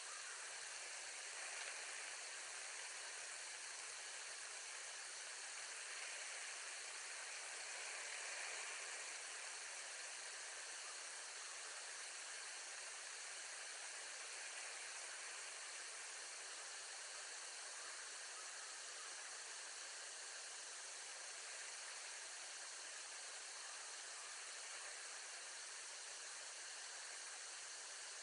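Steady hiss with no distinct events, rising slightly twice in the first third.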